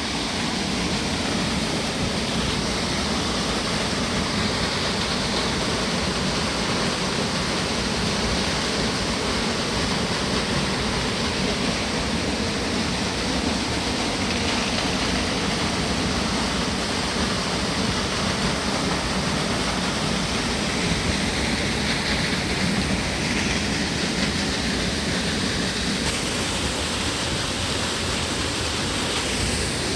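Trout stream rushing: a steady, even wash of running water.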